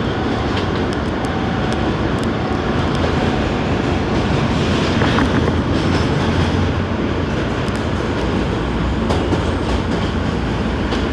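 New York City subway car running on the rails, a steady loud rumble of wheels and car body with scattered clicks from the track.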